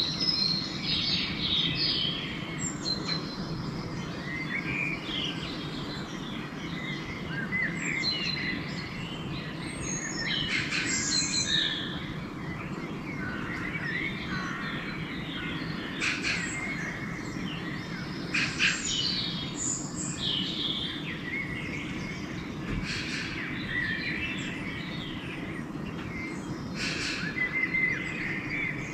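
Pre-dawn chorus of several songbirds singing and calling over one another in short chirps, trills and whistles, over a steady low background rumble.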